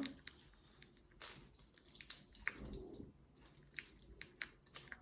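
Green-cheeked conure biting and crunching a walnut with its beak: scattered, irregular sharp little cracks and clicks.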